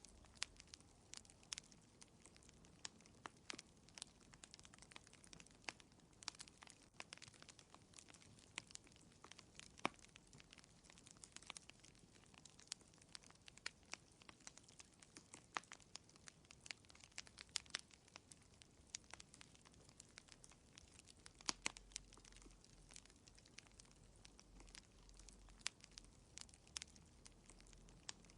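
Wood fire in a fireplace crackling quietly: scattered, irregular pops and snaps over a faint hiss.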